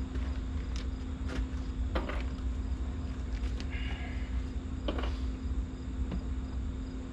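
A few sharp clicks and knocks of hands working plastic trim pieces and push-pin clips, over a steady low hum and the chirping of insects.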